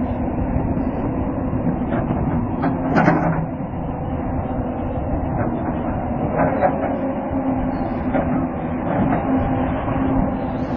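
A heavy machine's engine running steadily with a low hum, with a few clanks and knocks, the loudest about three seconds in.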